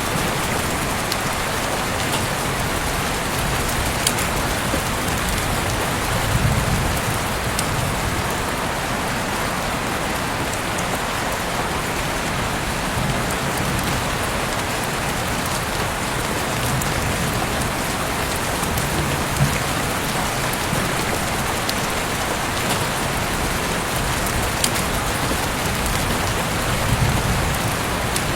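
Heavy rain falling steadily outside an open window, a dense even hiss with scattered sharper drop impacts.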